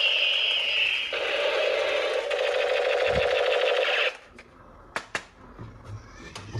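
Electronic toy gun sound effect from a small speaker: a falling tone, then a rapid buzzing burst of simulated gunfire that cuts off suddenly about four seconds in. Two sharp clicks follow about a second later.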